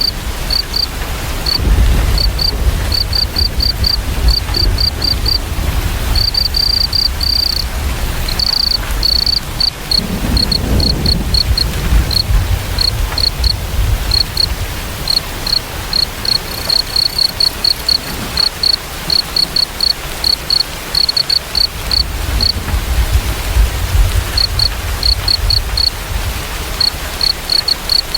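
Crickets chirping in quick, evenly spaced runs of short high chirps, over the steady hiss of falling rain. A low rumble swells now and then underneath.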